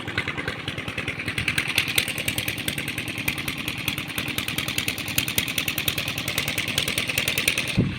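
Engine running steadily with a rapid, even beat of firing pulses.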